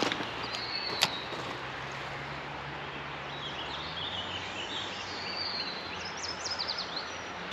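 Steady rush of flowing creek water with birds chirping now and then, ending in a quick run of chirps; a single sharp click sounds about a second in.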